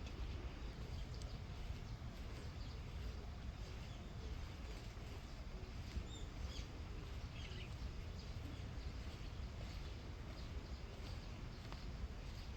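Steady low rumble of wind on the microphone, with a few faint, short bird chirps about six to seven seconds in.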